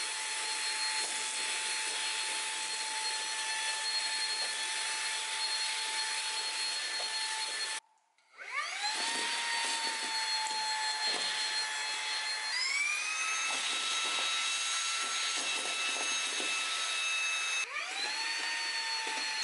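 Xiaomi Mijia handheld vacuum cleaner, a 120 W cordless stick vacuum, running with a steady high motor whine. It cuts out about eight seconds in, spins back up in standard mode, then steps up to a higher, louder whine when switched to strong mode. Near the end it drops briefly and spins up again at the lower pitch.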